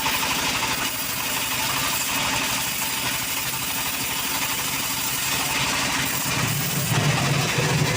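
Engine of a wood-cutting saw running steadily, its low hum growing stronger about six and a half seconds in.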